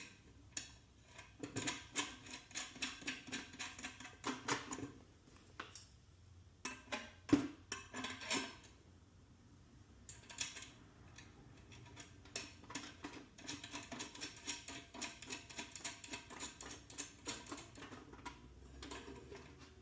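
Small metal parts clicking and rattling in bursts of quick ticks as they are handled: a spring and the displacer's threaded-rod hardware being fitted.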